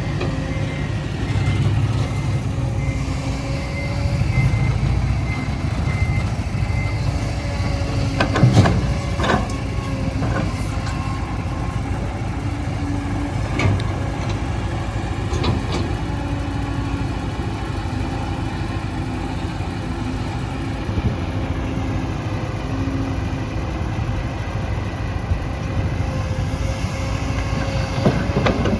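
Heavy diesel engine of an excavator running steadily while it digs, with a few clanks and knocks about eight to ten seconds in and again near the end. A faint repeating beep sounds over the first several seconds.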